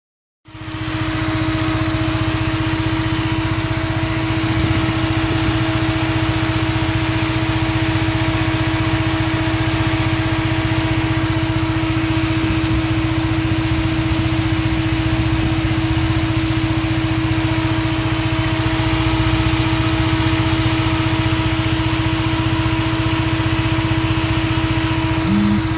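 Peugeot 207 1.6 THP turbocharged four-cylinder engine idling steadily, with a steady whine held over the engine note; the car has an engine management system fault.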